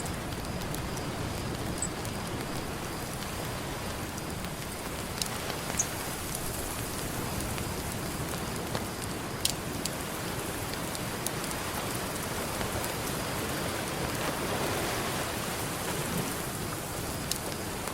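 Campfire crackling, with a few sharp pops from the burning wood, over a steady wash of ocean surf that swells a little about three-quarters of the way through.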